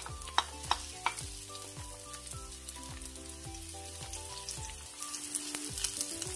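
Sliced onion and garlic sizzling in hot oil in a wok while a wooden spatula stirs them. A few sharp clicks come in the first second or so.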